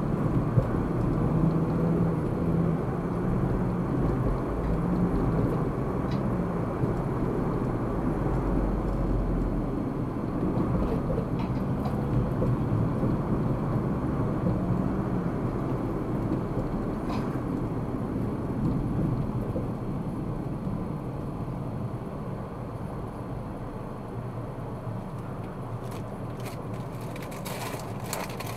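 A car's engine hum and tyre and road noise heard from inside a moving car. The noise grows gradually quieter over the last several seconds.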